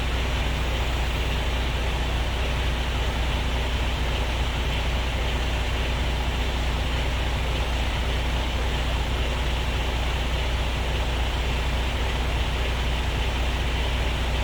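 Truck diesel engine running steadily: a constant low rumble that does not change in speed or level.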